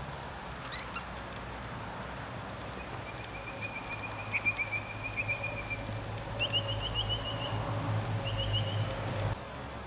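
Bird calls: a run of quick, high chirping trills starting about three seconds in, then two shorter bursts of trills near the end, over a steady low rumble.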